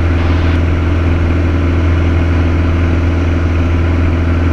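Piper Cherokee's piston engine and propeller running steadily in cruise, an even drone heard inside the cabin.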